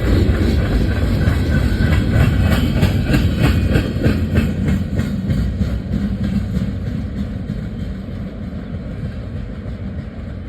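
A train rolling past: low rumble with a quick, rhythmic clickety-clack of wheels over rail joints, fading steadily as it moves away.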